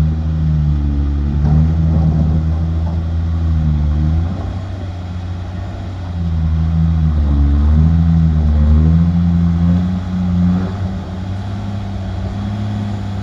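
A dump truck's diesel engine pulls hard up a pit ramp. Its pitch rises and falls as it revs and changes gear, and the sound drops off briefly about 4 seconds in and again about 10 seconds in.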